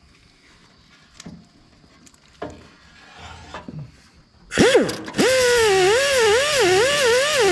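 A few light clicks and knocks of tools being handled. About four and a half seconds in, an angle grinder with a fresh disc spins up, stops for a moment and starts again. It then runs loudly, its pitch dipping and rising a few times a second as the disc is worked against the weld seam.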